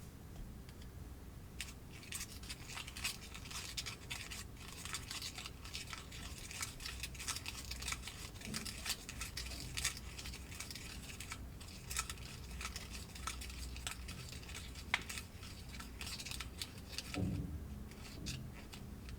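Plastic snack-kit packaging being handled, crinkling and tearing in a dense run of crackles and rustles from about two seconds in until near the end, with a soft thump near the end.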